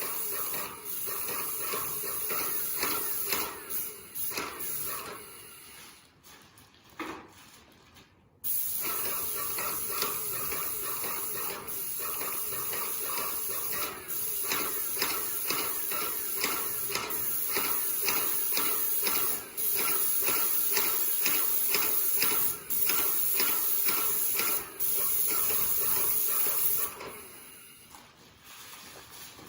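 Paint spray gun spraying doors: a steady hiss of atomised paint with a fast, regular ticking underneath. The spray stops for a couple of seconds near the start, breaks briefly between passes, and stops near the end.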